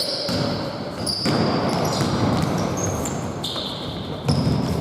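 Basketball game play: sneakers squeaking in short high chirps on the court floor several times, with the ball bouncing.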